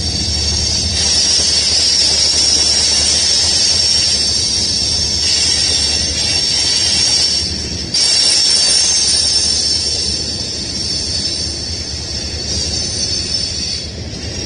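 Union Pacific manifest freight train rolling past, a steady rumble of wheels on rail with a high-pitched whine of wheels on the rails over it. The sound jumps up suddenly about eight seconds in.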